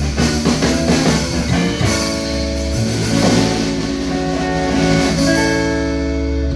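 Live rock and roll band playing the instrumental close of a song on electric guitar, bass and drums, with sustained chords ringing over the beat.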